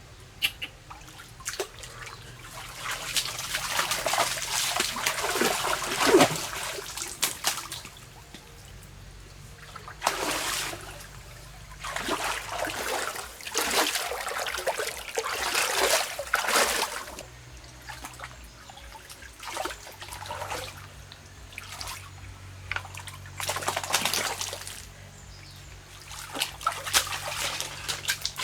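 Water splashing and trickling in repeated bursts of a few seconds, with short quieter gaps between them.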